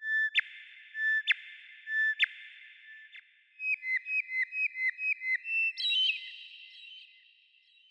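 Bird song: three clear whistled notes about a second apart, then a quick run of shorter whistled notes, about three a second, with a trailing echo.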